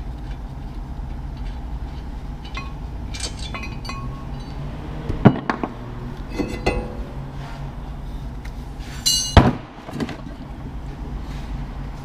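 Metal tools and car parts clinking and knocking during hands-on work, with two loud sharp knocks about five and nine seconds in, over a steady low hum.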